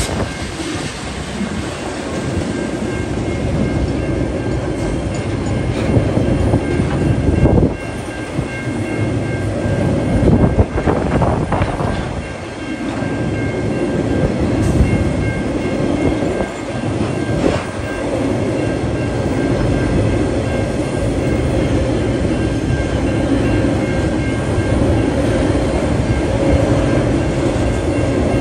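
Freight train wagons loaded with logs rolling past, loud and steady, their steel wheels clattering over the rails.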